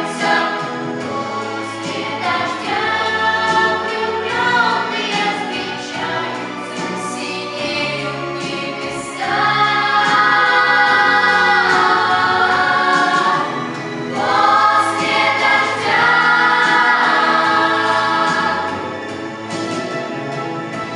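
Vocal ensemble singing a song in harmony over instrumental accompaniment, with long held chords partway through.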